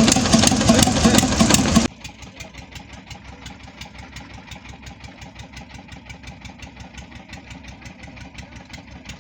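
An engine running steadily with an even, rhythmic chug. It is loud for about the first two seconds, then drops suddenly to much quieter and keeps running at the same rhythm.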